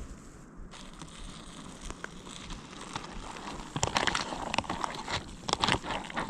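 Crinkling and scattered clicks from a freeze-dried backpacking meal pouch being handled, getting busier in the second half.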